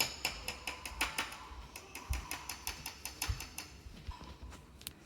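Spoon clicking and tapping against a mug as Nutella is spooned in: quick runs of light ticks, several a second.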